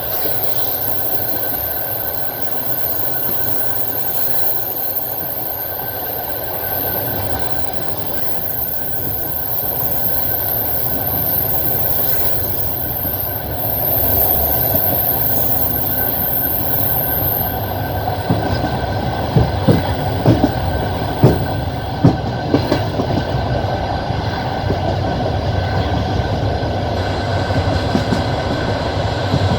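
Passenger train coach's wheels rolling on the rails, heard from inside the carriage as a steady rumble. A cluster of sharp wheel clacks comes about two-thirds of the way through, and a faint high whine stops a little past halfway.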